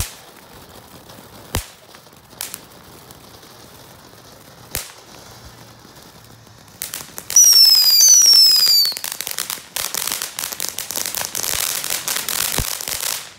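Consumer ground fireworks fountain going off. A few scattered pops come first, then about seven seconds in two loud whistles fall in pitch one after the other, followed by several seconds of dense crackling.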